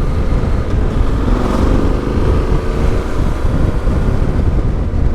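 Yamaha Ténéré 700's parallel-twin engine running through an Akrapovic exhaust while riding at a steady pace, with a heavy low rumble of wind on the microphone.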